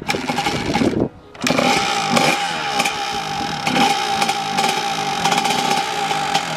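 Small motorcycle engine running after a dead spark plug was found and replaced. It dips briefly about a second in, then runs on steadily with a high, buzzy note.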